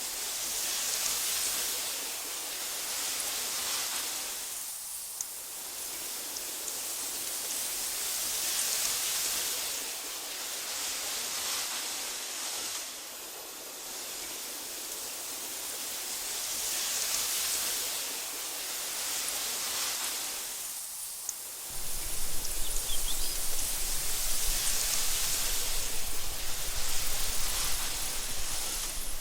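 Wind blowing through meadow grass: a soft hiss that swells and fades in slow gusts. About three-quarters of the way through, a low rumble joins and the sound gets louder.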